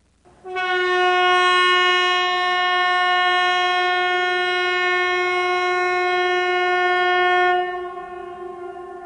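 A steady, pitched tone, as from a buzzer or horn, starts suddenly, holds at one pitch, then drops to a quieter level about seven and a half seconds in.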